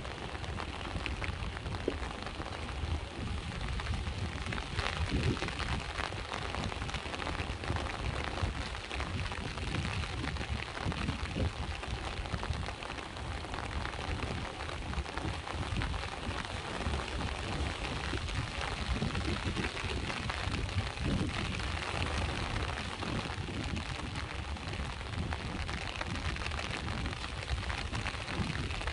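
Steady rain falling, many small drops patter on a surface, over a continuous low rumble of sea waves.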